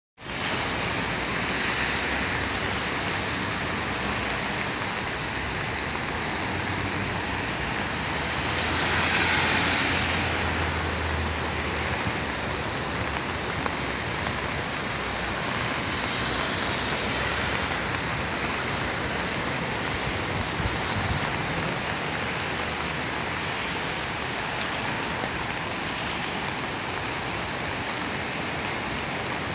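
Steady rushing noise of rain and breaking surf, swelling louder for a couple of seconds about nine seconds in.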